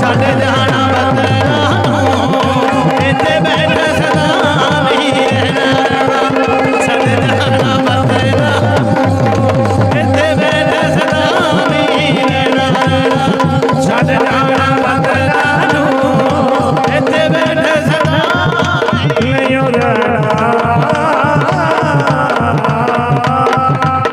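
Instrumental interlude of a Punjabi devotional bhajan: a wavering melody line over held drone notes and a fast, even hand-drum rhythm.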